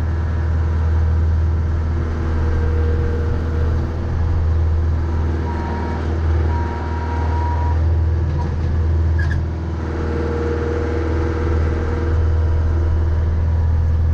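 Mahindra 3550 50-horsepower diesel tractor engine running steadily with a deep hum, and a thin steady whine for about two seconds near the middle.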